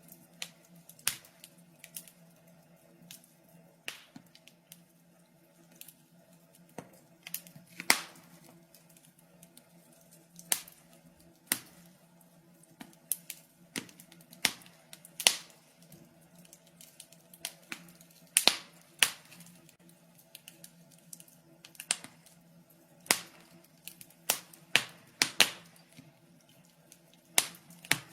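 Wood fire crackling in a fireplace: sharp irregular pops and snaps, several a second at times and sparse at others, over a faint steady low hum.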